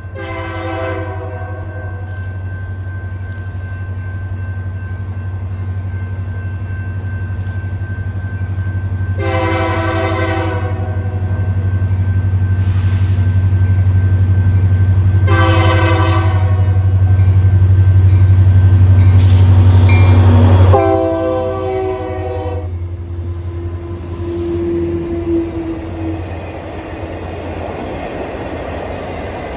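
A diesel freight locomotive sounds its horn in several long blasts as it approaches, over a deep engine drone that builds, then drops off sharply about two-thirds of the way through as the locomotive passes. The rumble of the train's cars on the rails follows.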